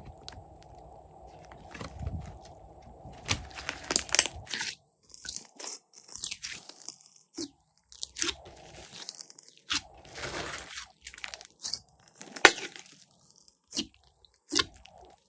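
Glossy slime being squeezed, poked and stretched by hand, giving irregular sticky clicks, crackles and pops.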